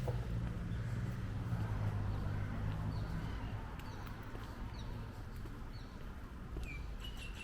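Street ambience: a vehicle engine's low hum that fades about three seconds in, with birds chirping in short calls and a clearer chirp near the end.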